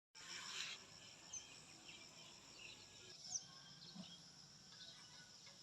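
Near silence: faint outdoor ambience of steady insect buzzing with a few short bird chirps.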